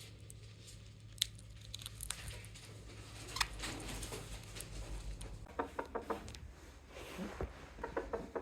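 Small pet parakeets moving about: scattered light clicks, scratching and rustling, with a few short soft chirps in the last few seconds, over a low steady hum that stops partway through.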